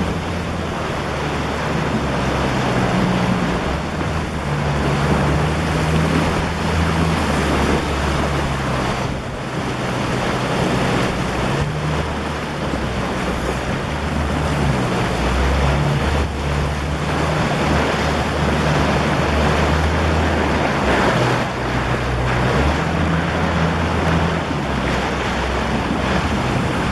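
Steady rush of wind and water from a boat under way, with a low rumble underneath that comes and goes.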